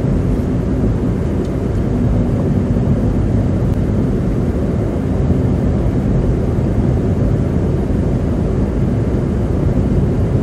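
Steady low road rumble inside a car's cabin while driving on a slush-covered highway: tyres on wet slush and the engine running at cruising speed.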